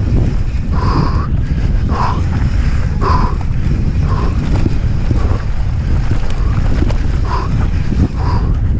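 Heavy wind buffeting on a bike-mounted or helmet camera microphone during a fast mountain-bike descent, with rattling from the bike over rough trail and a short hissing sound about once a second.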